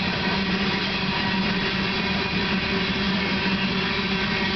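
Coal hopper cars of a freight train rolling past, a steady rumble of steel wheels on rail with a constant low hum underneath.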